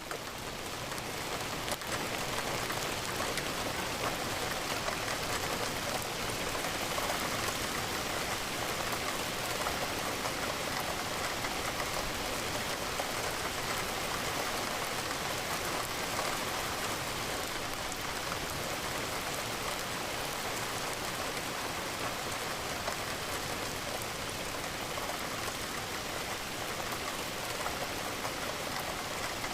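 Steady rain falling on a window, an even hiss of raindrops.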